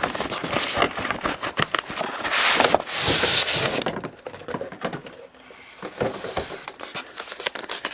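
Model train car box and packaging being handled and opened: rustling, scraping and small knocks, with a longer, louder rustle from about two and a half to four seconds in.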